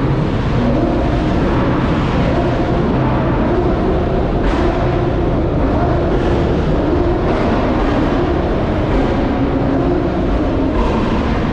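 Loud, steady rumble of car engines running at a car meet.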